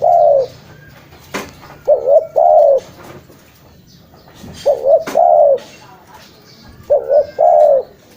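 Spotted dove (tekukur) cooing: three full call phrases about two and a half seconds apart, each a quick two-note stutter followed by a longer drawn-out coo.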